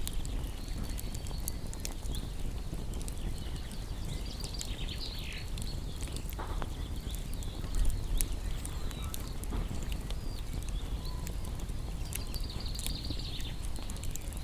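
Wood fire crackling with scattered sharp pops over a low steady rumble, while small birds chirp in short high bursts, once about four seconds in and again near the end.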